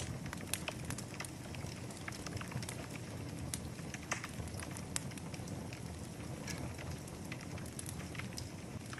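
Wood fire burning in a fireplace: a steady low rush with frequent irregular crackles and pops, a few sharper pops scattered through.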